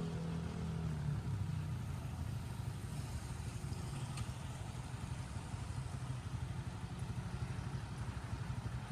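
A small engine running steadily at low revs, its note settling a little in the first second.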